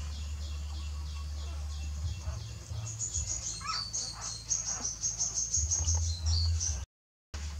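Small birds chirping in quick high-pitched runs through the middle, over a steady low hum; the sound drops out for a moment near the end.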